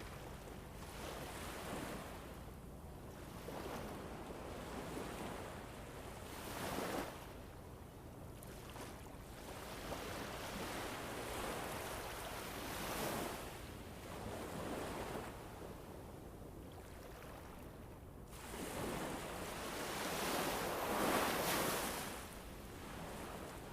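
Winter wind ambience: a steady rushing that swells into gusts and dies back every few seconds, with the strongest gust near the end.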